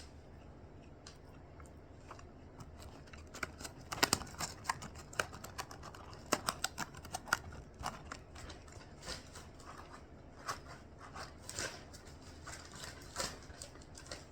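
Close-up chewing of crispy breaded fried mozzarella sticks: irregular crunchy crackles and clicks, a few per second.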